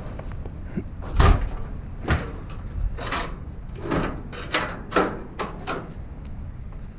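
Scrap being handled and loaded: a string of irregular knocks, clunks and scrapes, the loudest about a second in.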